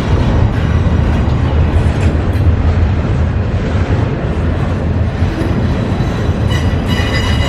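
CSX freight train rolling past, a steady low rumble of its cars on the rails, with a thin high ringing appearing briefly near the end.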